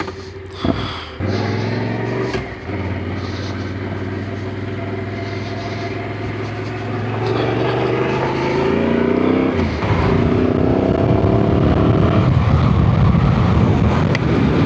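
Yamaha Ténéré adventure motorcycle engine running steadily, then pulling away: the engine note climbs as it accelerates, drops at a gear change about ten seconds in, and climbs again as the bike gets under way, with rushing noise building.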